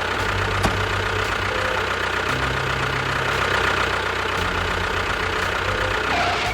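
An engine running steadily at idle, its low pitch shifting a little about two seconds in and again a couple of seconds later.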